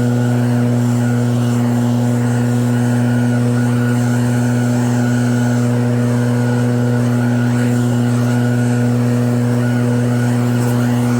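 Snowblower engine running steadily at a constant speed, a steady drone with no change in pitch.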